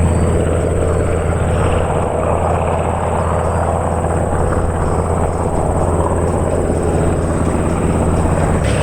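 Radial-engined warbird running steadily at low power, a loud low drone with a steady pulse; the sound changes abruptly near the end.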